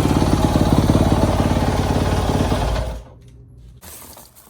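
Yamaha YZ250F dirt bike's single-cylinder four-stroke engine running steadily after being cranked up to warm the oil before an oil change. It stops abruptly about three seconds in.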